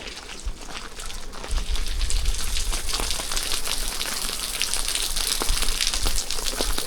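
Rain falling in a dense patter of many small drops, growing louder about a second and a half in, with a low rumble underneath.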